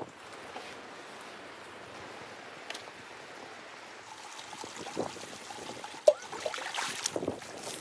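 Steady running or trickling water, joined in the second half by scattered handling knocks and clinks, with one sharp click about six seconds in as the loudest sound.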